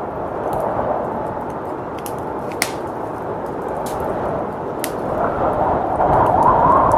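Wood fire crackling with scattered sharp pops over a steady blizzard wind, which swells into a stronger gust about five seconds in.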